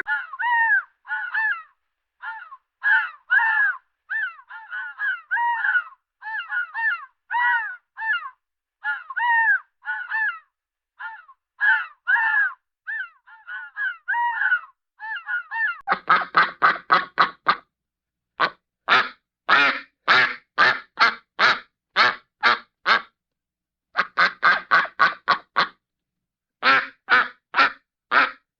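Cartoon animal-call sound effects: a run of short, high chirping bird calls, then, about halfway through, harsher, rapid quacking calls in quick bursts.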